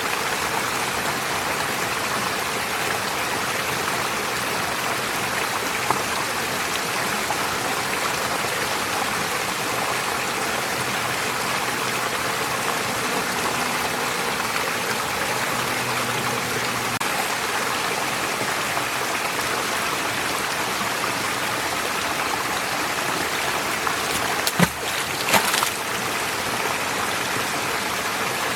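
A forest stream flowing and splashing over stones, a steady rush of water. Near the end come a few sharp clicks or knocks.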